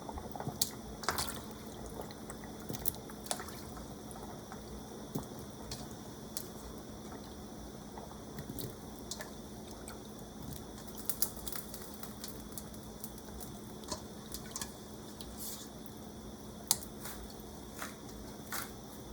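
Pot of soup boiling, a soft steady bubbling, with scattered light clicks and taps of kitchen handling throughout.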